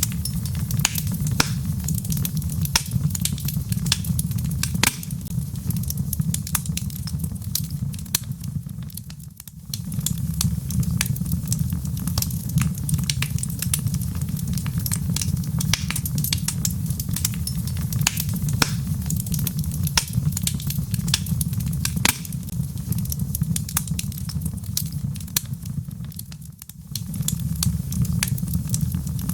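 Wood fire burning in a fireplace: dense crackling and sharp pops over a low steady rumble of flame. The sound dips briefly twice, about nine seconds in and again near the end.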